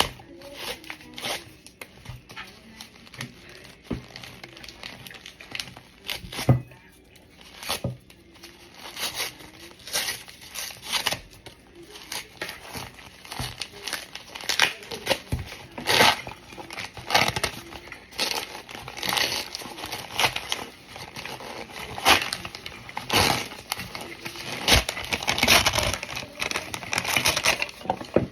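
Crunching and crackling of hardened cornstarch, prepared by steaming and microwaving: many irregular short crunches, busier and louder over the second half.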